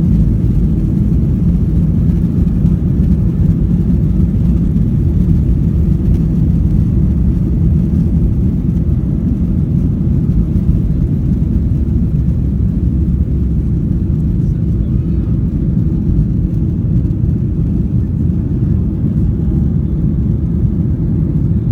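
Steady, loud cabin noise of an airliner during takeoff: the low rumble of the engines and rushing air heard from inside the passenger cabin, unchanging throughout.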